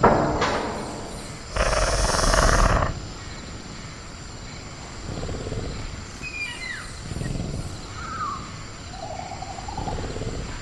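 Designed velociraptor creature sounds for a caged-raptor ambience: a sharp loud sound at the start, then a harsh noisy burst lasting about a second, followed by low growls. Short falling bird chirps and a steady high cricket tone run underneath.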